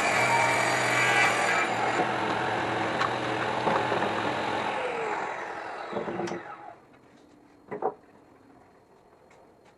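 Electric power saw running through wood, then its motor winding down with falling pitch and stopping about two-thirds of the way in. A single knock follows near the end.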